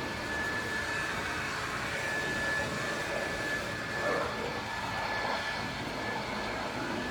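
Ryobi 2000 psi pressure washer running steadily, its water jet hissing, with a steady high whine.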